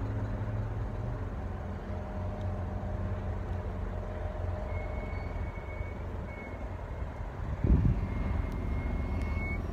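Car engine idling, a steady low hum heard from inside the cabin, with a single thump near the end and a faint high steady tone in the second half.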